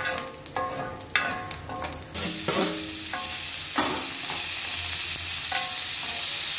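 Paneer cubes frying in butter on a hot cast-iron dosa tawa: the sizzle jumps up suddenly about two seconds in as a fresh spoonful goes on, then holds steady. A steel spoon clinks and rings against a steel plate several times as the cubes are scooped.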